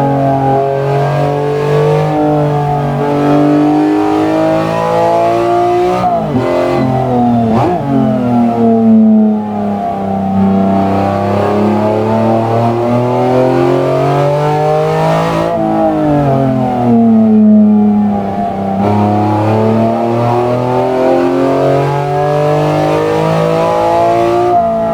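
BMW S54B32 naturally aspirated 3.2-litre inline six running and changing speed. Its pitch sinks slowly, then swings up and down quickly a couple of times, climbs again for several seconds, drops suddenly, and then climbs once more.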